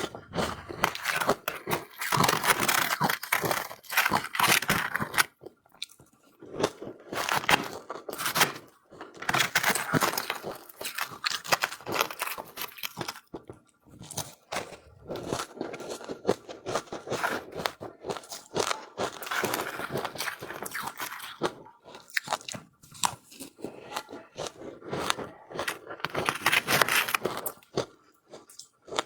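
A person biting and chewing powdery frozen ice, with many fine crunches in bouts a few seconds long and short pauses between them.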